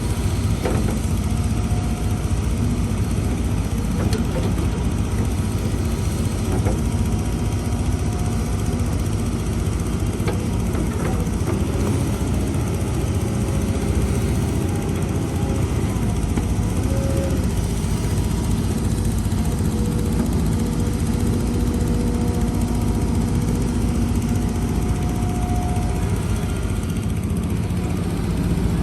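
Heavy diesel earthmoving machinery running steadily, with a few faint knocks along the way.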